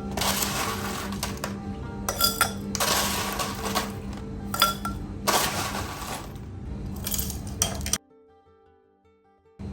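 Background music with stretches of clattering and sharp clinks of small hard objects being handled. The handling noise and music drop away abruptly about eight seconds in, leaving only faint music.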